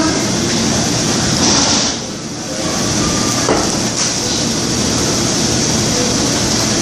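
Steady hiss and rumble of restaurant background noise, dipping briefly about two seconds in.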